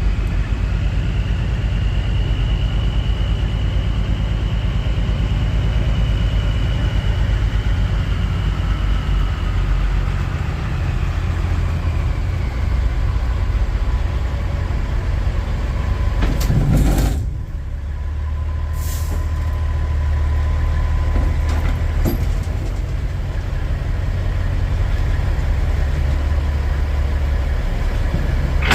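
Kenworth semi truck's diesel engine running steadily, with a short burst of air hiss about 17 seconds in, typical of the air brakes being set, after which the engine settles to a quieter idle.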